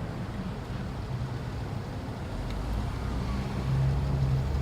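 Car engine and tyre noise heard from inside a moving car: a steady low hum with road noise, growing louder for a moment near the end.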